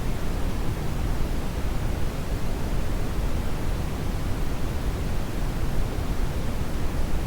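Steady synthetic brown noise: an even, deep rushing hiss with most of its weight in the low end and no changes or events.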